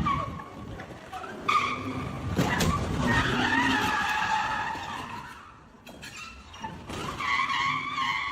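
Car tyres screeching in a skid, a wavering high squeal that starts sharply about one and a half seconds in, dies away after about five seconds and returns near the end. There is a sharp knock about two and a half seconds in.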